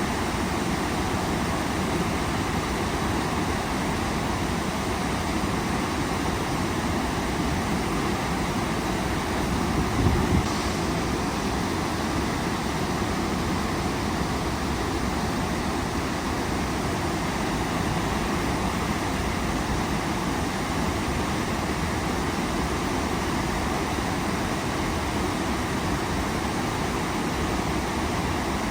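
Waterfall: a steady, loud rush of falling water. A brief low thump breaks through about a third of the way in.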